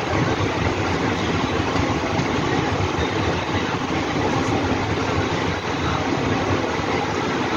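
Passenger train running at speed, heard from the side of the moving coach: a steady rumble of wheels on rail mixed with rushing air, with no separate clicks or squeals standing out.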